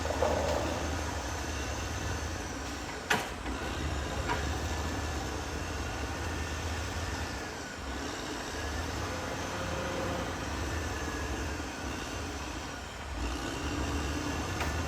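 Caterpillar D6R XL bulldozer running steadily at work, with a sharp metallic clank about three seconds in and a lighter one a second later.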